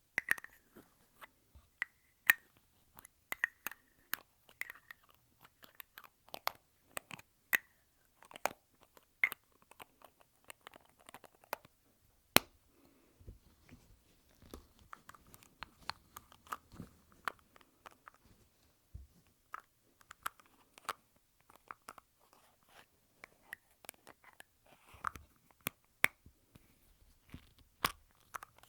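Lipstick tubes handled close to the microphone: irregular sharp clicks and taps of the caps and cases going on and off, with faint rustling between them.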